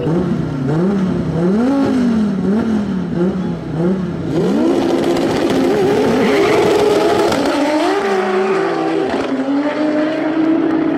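Car engines at a drag strip revving up and down repeatedly before the launch, then cars launching hard and accelerating through the gears with tyre noise.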